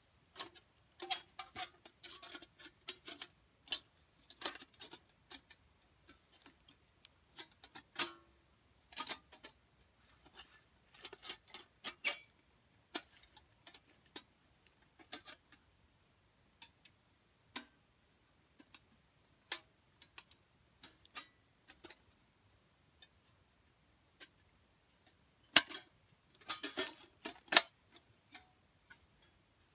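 Irregular sharp clicks and small snaps of hands handling things, sparse in the middle and bunching into a dense run near the end.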